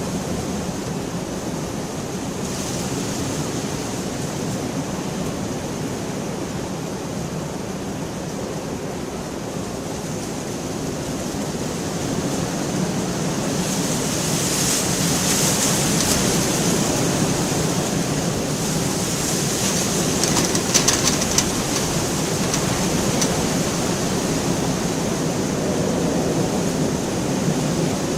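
Steady heavy rain that swells louder about halfway through, with a few faint drop ticks.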